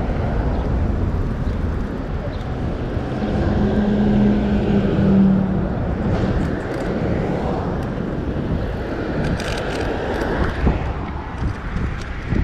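Wind buffeting the microphone of a moving e-bike, a dense low rumble mixed with road noise. A steady low hum joins it for about two seconds near the middle.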